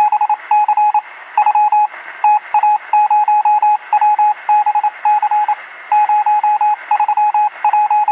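A single-pitched electronic beep keyed on and off in rapid irregular groups of short and longer tones, like Morse code, over a thin hiss that sounds as if heard through a radio.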